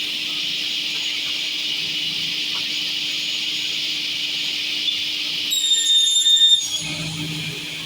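MJ6132C sliding table panel saw running with a steady high whirring hiss and a low hum; about five and a half seconds in, a high-pitched squeal lasts about a second.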